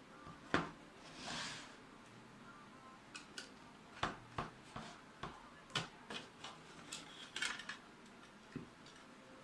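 Irregular light clicks and clinks of metal parts and screws being handled as a PC ATX power supply is taken apart, with a short scraping rush about a second in.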